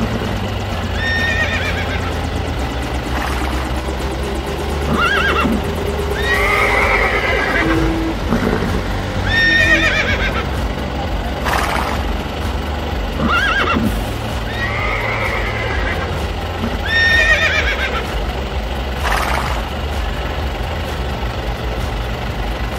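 Recorded horse whinnies played as a sound effect, about ten short neighs following one another every couple of seconds over a steady low drone.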